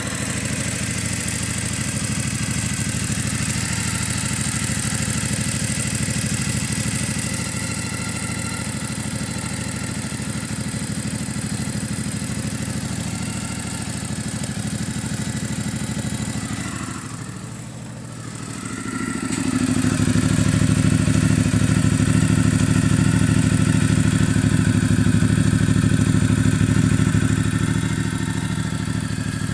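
Ducati Multistrada 1200S's L-twin engine running steadily. Its sound drops away briefly a little past halfway, then comes back louder and higher for about eight seconds before settling back to its earlier level.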